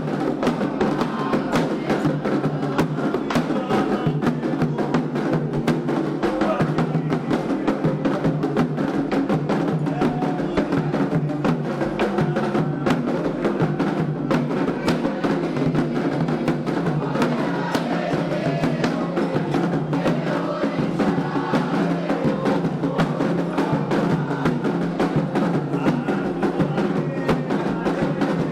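Candomblé ceremonial percussion: hand drums beating a continuous fast rhythm, with a dense run of sharp strikes.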